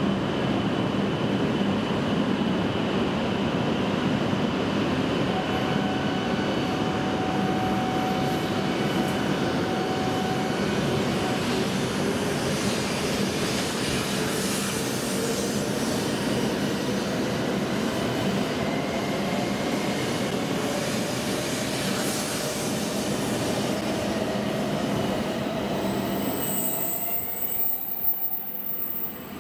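W7 series Shinkansen train pulling out and gathering speed past the platform: steady rumble and hiss of wheels on rail, with a faint motor whine rising slowly in pitch as it speeds up. The noise drops away suddenly near the end as the last car passes.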